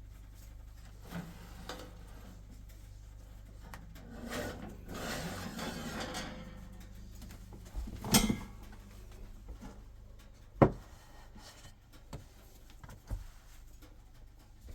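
Handling noises in a small room: a scraping rub lasting about two seconds, then a few separate knocks, like wood being moved or set down.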